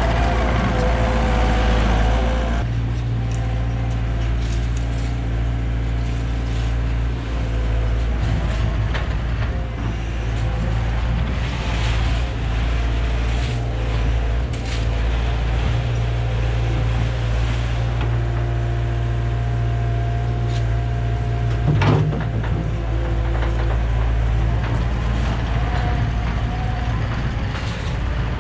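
Heavy diesel machinery engine running steadily under load, with a steady whine over it and one sharp knock late on.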